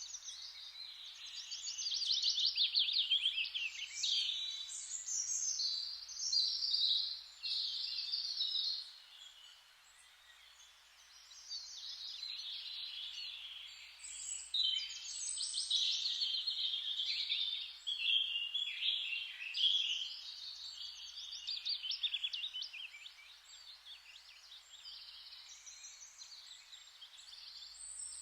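Forest ambience: several songbirds chirping and trilling in overlapping phrases that rise and fall in loudness, over a soft steady hiss.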